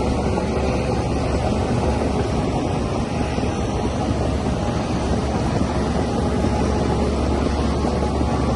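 DH17C3 bulldozer's diesel engine running steadily, a continuous drone at an even pitch with no clear revving or change.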